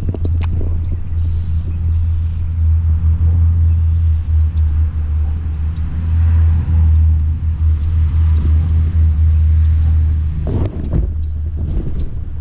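A boat motor running steadily under way, a low rumble that wavers in level.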